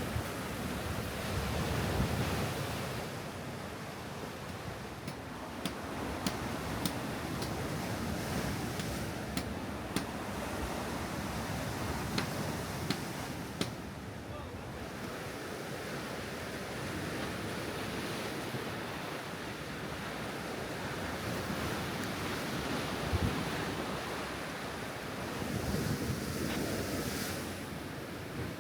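Steady wind buffeting the microphone over the wash of ocean surf, with a scatter of sharp clicks a few seconds into it.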